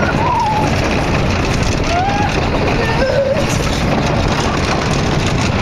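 Vekoma mine train roller coaster running along its track: a steady loud rumble with wind rushing over the microphone. Riders call out briefly about two and three seconds in.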